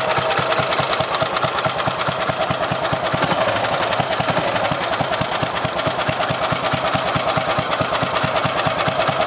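Rebuilt Briggs & Stratton 12 hp small engine running steadily with rapid, even firing pulses. It has an oversized main jet and is running a little rich.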